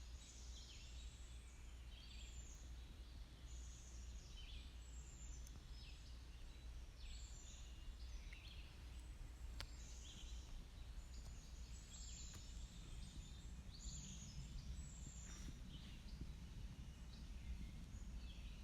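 Songbirds chirping: repeated short, high, down-slurred calls about once a second, over a faint steady low rumble that grows a little louder past the middle.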